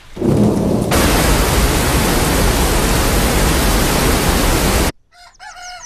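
Heavy rain pouring down as a cartoon sound effect: a loud, even hiss that begins with a low rumble, runs for about four and a half seconds and then cuts off abruptly.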